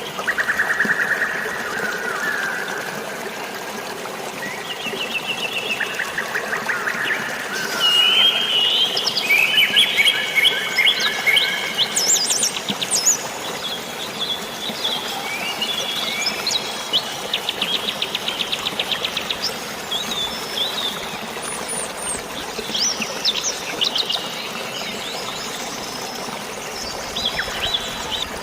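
Several birds chirping and trilling, one call after another, with rapid trills and short whistled glides, over a steady rush of flowing water.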